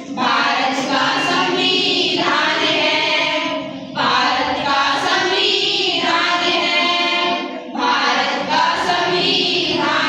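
A choir of voices singing in chorus, in long sustained phrases broken by short pauses about four seconds in and again near eight seconds.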